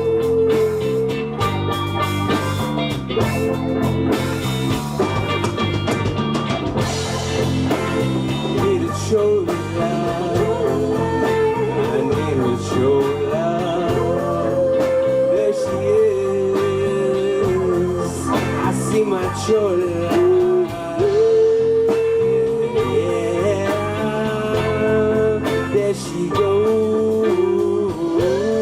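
Live band playing an instrumental passage: a gliding lead guitar melody over bass and drums.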